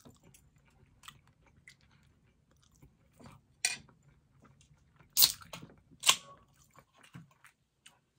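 A person chewing a mouthful of arroz con gandules (rice with pigeon peas) close to the microphone, with small wet mouth clicks throughout and three sharp, louder clicks in the second half.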